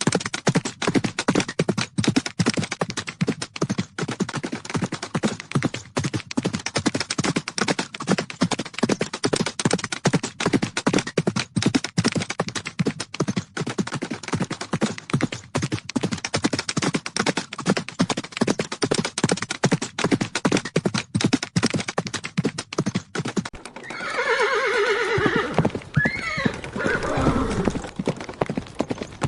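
Horses galloping, their hooves a rapid, continuous clatter of beats. About three-quarters of the way through, a horse gives a loud whinny lasting a few seconds, its pitch wavering and falling.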